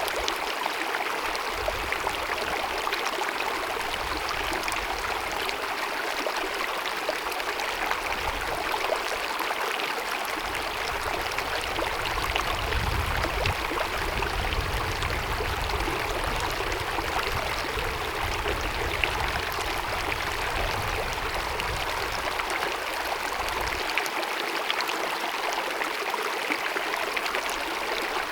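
Glacier-fed mountain meadow stream cascading: a steady rush of running water, with a low rumble underneath that comes and goes and drops away near the end.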